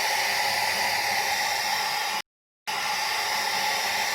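Handheld hair dryer blowing steadily at a constant pitch, cut by about half a second of dead silence a little over two seconds in.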